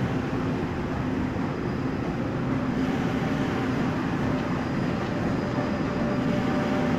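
Passenger train moving along the track below, a steady running noise of wheels on rails with a low, even hum from its machinery.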